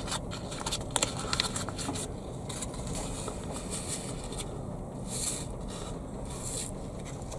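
Hands sowing lettuce seeds into pots: light rustling and small clicks, with two short hissing rustles later on, over a steady background hiss.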